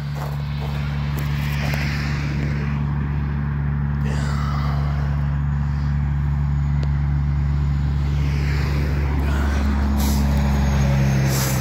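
Motor vehicle engine running with a steady low drone, its pitch shifting slightly near the end.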